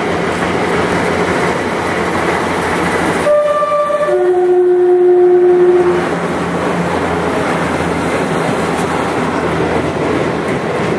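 Heavy diesel-hauled freight train rolling past with a steady noise of wheels on rail. About three seconds in the locomotive sounds its two-tone horn: a short high note, then a lower note held for about two seconds.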